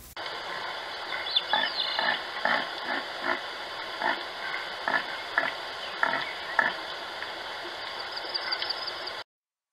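Short animal calls repeated about twice a second over a steady hiss, stopping after about seven seconds.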